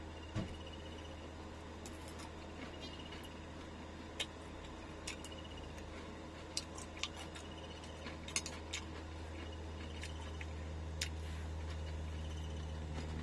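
Scattered light clicks and taps of food and utensils being handled, over a steady low hum, with a faint high-pitched pulsing chirp coming and going.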